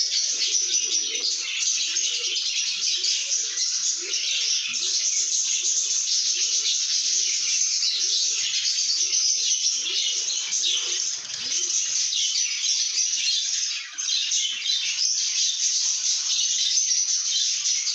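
A flock of lovebirds chattering without pause, a dense high-pitched twittering. A run of short, lower, regularly spaced notes stops about two-thirds of the way through.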